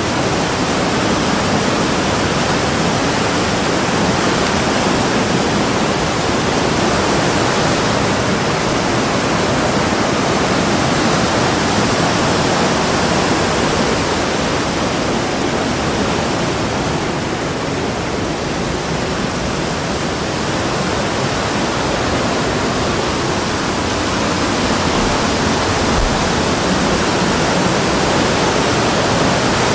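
Steady, loud rushing water, an even roar of a fast stream or waterfall with no breaks.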